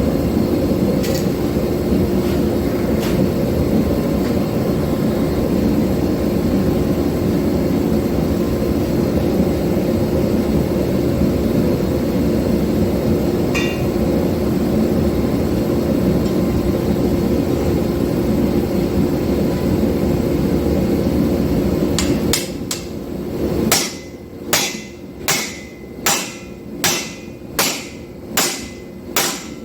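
Steady roar of a forge burner, with a few light metal clinks, cuts off about 22 seconds in. Then hand-hammer blows on hot steel at the anvil, evenly paced at a little under one and a half strikes a second, each ringing briefly.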